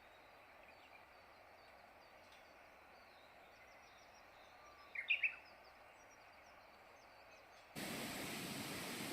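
Quiet outdoor ambience with faint, high, repeated chirping and a short three-note bird call about five seconds in. Near the end a steady hissing noise starts abruptly and stays.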